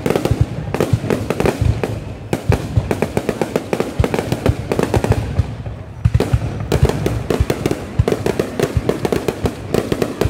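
Aerial fireworks going off in rapid succession: dense, sharp bangs and crackling pops, many a second, easing briefly twice before picking up again.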